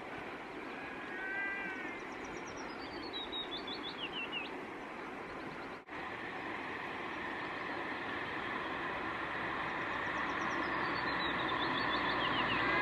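A small bird singing a quick falling trill of chirps, twice, about eight seconds apart, over a steady rush of background noise that grows louder toward the end. A short arched call sounds about a second in.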